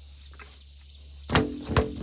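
Two hard strikes on wood, about half a second apart near the end, each with a short hollow ring, over a steady high drone of insects.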